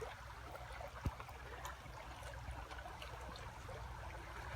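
Small stream of water trickling steadily, with a single low thump about a second in.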